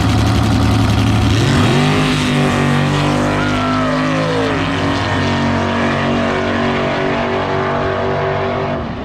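Drag race cars sitting at the line, then launching at full throttle about a second and a half in, the engine pitch jumping up and the engines running hard down the strip, with a falling pitch as a car passes.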